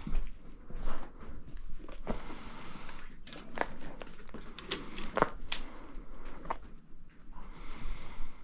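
Footsteps and scattered knocks on the ground, over a steady high-pitched insect chirring.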